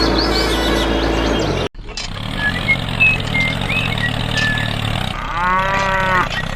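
Music that cuts off abruptly about 1.7 s in, followed by a cow mooing once, for about a second, near the end, over a steady background with a few bird chirps.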